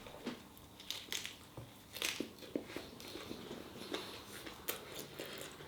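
A person biting into and chewing a chapatti wrap filled with crisp lettuce and chicken: irregular small clicks and crunches.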